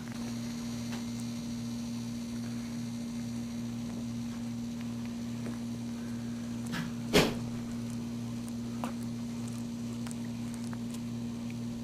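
Steady electrical mains hum, with a newborn puppy giving one short squeal that falls in pitch about seven seconds in and a fainter squeak shortly after.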